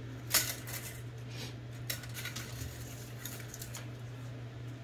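Small metal parts clinking as they are handled and rummaged through: a sharp click about a third of a second in, another near two seconds, and a few fainter ones, over a steady low hum.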